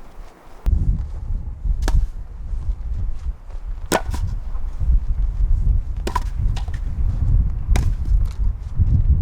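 Strong wind buffeting the microphone as a steady low rumble, with sharp knocks of firewood every second or two.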